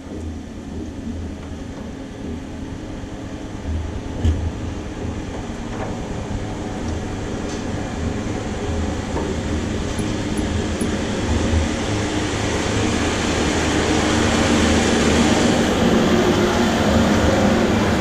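Cessna 140A's small four-cylinder piston engine running steadily, heard from inside the cabin, growing louder in the second half as the power comes up.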